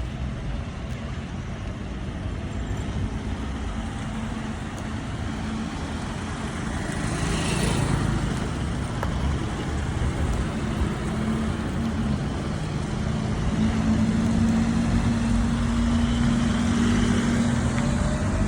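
Car engines running close by, with one growing louder through the second half as it runs on with a steady hum.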